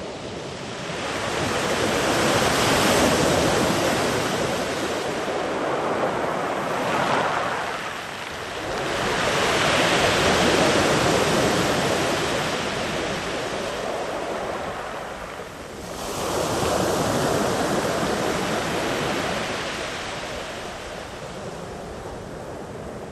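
Sea waves breaking and washing up a beach, one after another: three swells of surf about seven seconds apart, each rising and then fading back.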